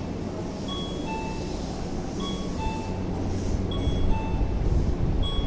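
Low rumble of an electric commuter train at a station platform, growing louder about four seconds in. Over it a short two-note electronic chime repeats about every second and a half, the kind of station guidance chime heard on Japanese platforms.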